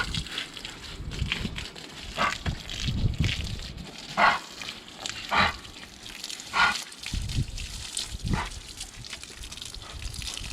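A dog being bathed, with water splashing and sloshing over it in about half a dozen short, irregular bursts.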